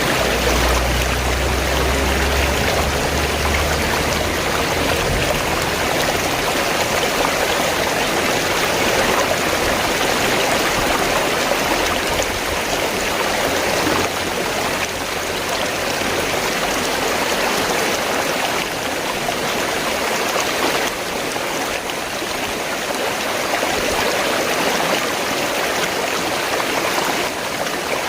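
River water flowing in a steady, continuous rush, with a low rumble underneath for the first few seconds.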